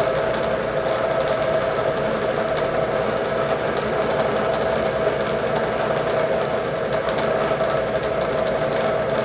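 Metalworking machine tool's spindle running steadily, with a constant whine over an even hum and a few faint ticks.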